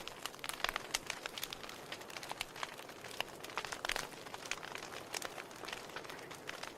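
Wood fire in a fireplace crackling, with irregular sharp pops and snaps from the burning logs over a soft hiss, and a cluster of louder pops about four seconds in.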